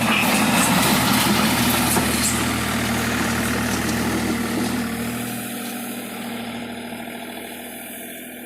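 John Deere tractor engine running steadily at idle, its sound easing off about halfway through.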